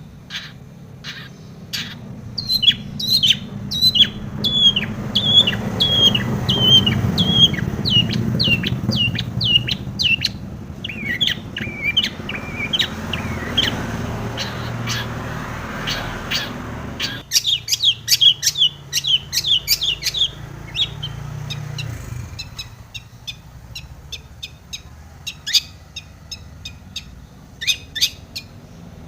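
Long-tailed shrike (cendet) singing in fast runs of short, sharp chirping notes, a song packed with mimicked calls, in several bursts. A low background rumble sits under the first two-thirds and stops about 22 seconds in.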